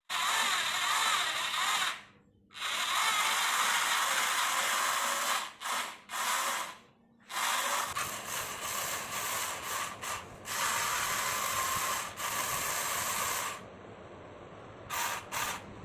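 Small electric motors and gearbox of a homemade model fire truck whirring in repeated runs of a second or more, each starting and stopping abruptly, with short pauses between them and two brief bursts near the end.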